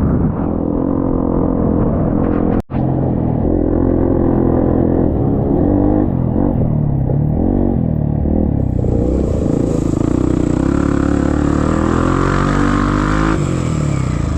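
Trail motorcycle engine running under load, its pitch rising and falling as the throttle is worked, with one very brief break a little under three seconds in.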